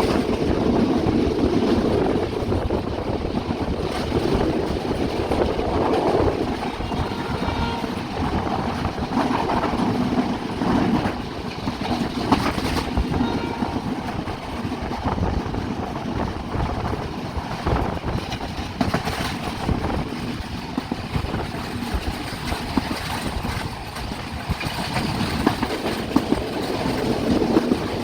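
Passenger express train running along the track: a steady rumble of wheels and carriage, with a few sharp clacks from the rails.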